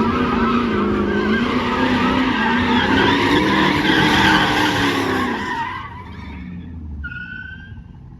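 Car tires squealing in a long slide or burnout, with the engine held at high revs and wavering, for about five and a half seconds before the sound dies away. A brief high-pitched tone comes about seven seconds in.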